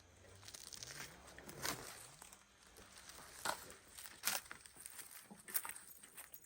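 Faint scattered rustling and crackling, with a few light snaps about a second apart, like dry plant material being handled.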